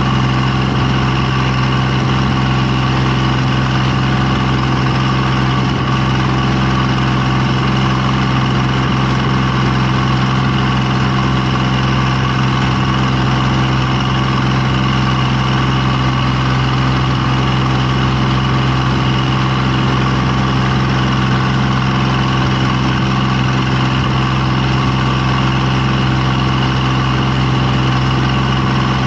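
An engine running steadily at a constant speed, a continuous hum that does not change.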